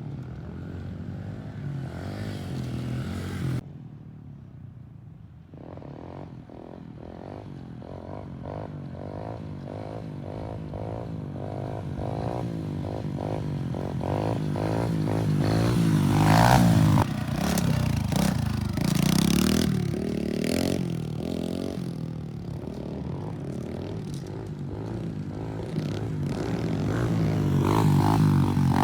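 Pit bike engine running and revving, its pitch rising and falling as the rider works the throttle. The sound cuts off suddenly about three and a half seconds in, then builds again and is loudest around the middle and near the end as the bike comes close.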